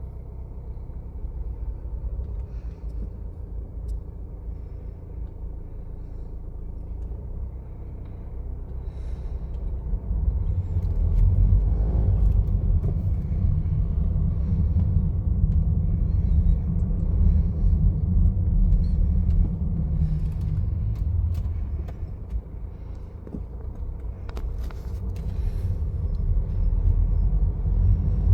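BMW 320d's N47 four-cylinder diesel engine running with a low rumble that grows louder about ten seconds in, eases off a little past twenty seconds and rises again. The owner reports a strange noise from it between 1500 and 2000 rpm.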